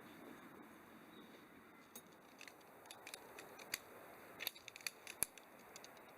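A dozen or so sharp, irregular clicks and snips, starting about two seconds in and bunching up near the end, over a faint hiss.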